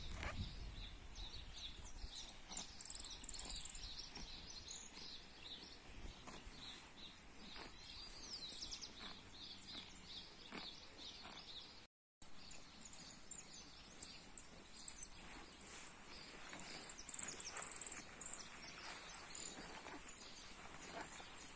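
Small birds chirping and twittering in many short calls over a quiet pasture background, with a brief dropout of all sound about halfway through.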